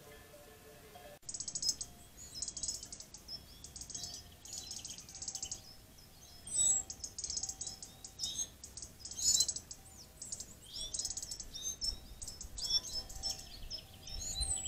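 Small birds singing: high chirps and rapid trills repeated in short bursts, starting about a second in.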